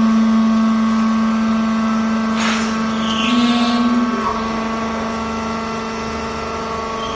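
Fiber baler machine running with a steady motor hum that comes in abruptly and swells briefly about three seconds in, with a short hiss about two and a half seconds in.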